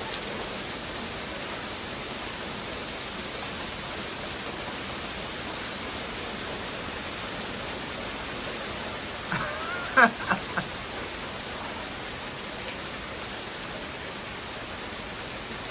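Rain falling steadily, an even hiss. About nine to ten seconds in, a few brief loud voice-like cries cut through it.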